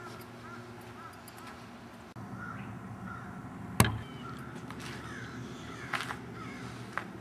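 Birds calling outdoors in short, repeated calls over a steady low hum, with one sharp knock a little before four seconds in.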